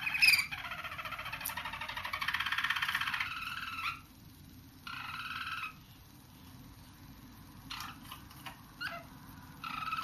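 Young roller canaries singing rolling, trilled tours: a long phrase of about four seconds, a shorter one about five seconds in, a few short chirps, then the song starts again near the end. These are young birds still working out new tour passages.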